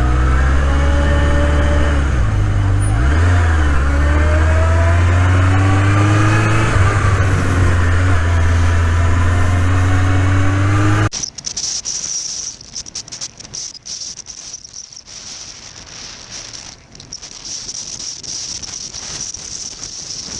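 Motorcycle engine running under way, its pitch drifting gently up and down. About eleven seconds in it cuts off abruptly to a quieter stretch of wind rushing over the microphone with a steady high hiss.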